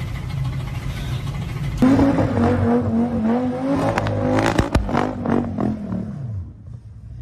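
A car engine running steadily, then, about two seconds in, a louder engine revving with a wavering pitch, broken by a few sharp knocks and clatter in the middle, before the engine note falls and fades near the end.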